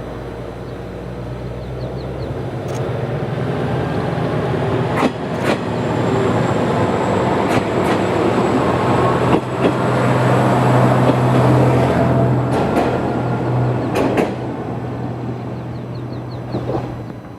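Heisei Chikuho Railway diesel railcar running by on the track: its engine's low drone grows louder, is strongest around the middle, then eases off. Wheels click over rail joints along the way.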